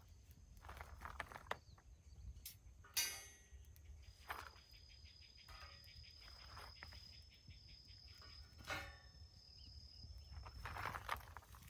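An insect trilling one high, steady note for about six seconds, among scattered light clicks and knocks. A sharper knock comes about three seconds in.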